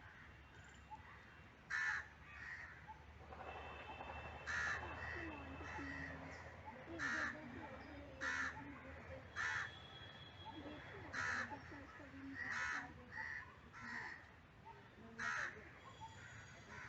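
Crows cawing: about eight single harsh caws spread through the stretch, a second or a few seconds apart. Smaller birds twitter faintly in the background.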